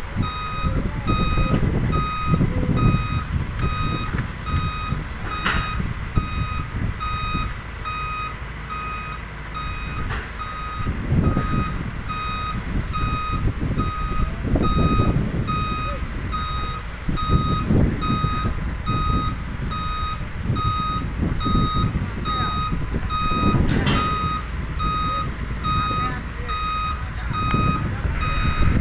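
A large truck's reversing alarm beeping at an even, rapid pace, over the low rumble of its engine, which swells several times as it manoeuvres.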